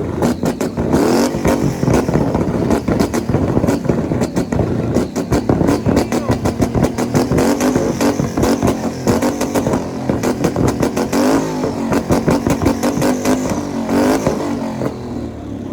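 Motor vehicle engines revving up and down over and over, with rapid crackling pops, easing off near the end.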